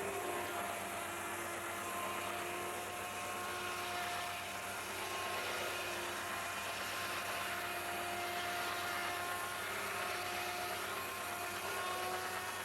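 Steam-driven sawmill's circular saw running with a steady high whine over a broad mechanical noise, its pitch wavering slightly.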